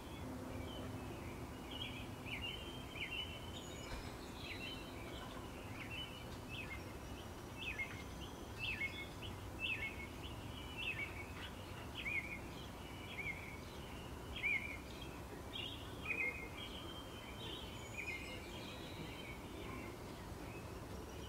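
Small birds chirping: short, downward-sliding chirps about once a second, over steady low background noise.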